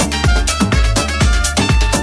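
Electronic club music from a DJ mix, with a steady, evenly repeating kick-drum beat over deep bass and sustained synth tones.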